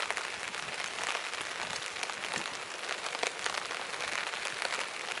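Steady rain falling, with a dense scatter of separate drops striking close by over an even hiss.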